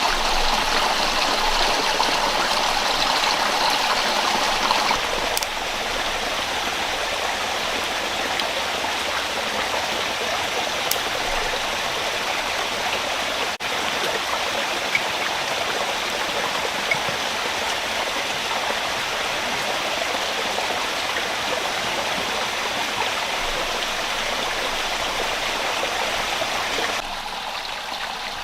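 Rocky rainforest stream rushing steadily over stones below a raised bamboo platform, a continuous water noise. It drops a little in level about five seconds in and again near the end.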